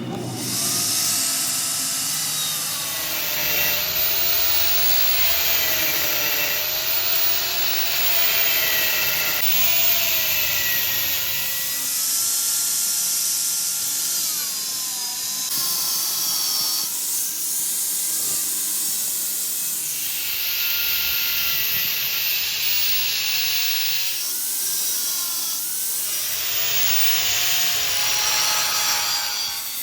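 Electric power tool grinding on metal: a steady hiss under a motor whine that wavers in pitch as the load changes. The sound shifts abruptly a few times.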